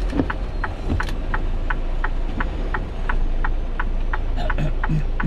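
Turn-signal indicator in a semi-truck cab ticking evenly, about three ticks a second, over the low steady rumble of the truck's engine.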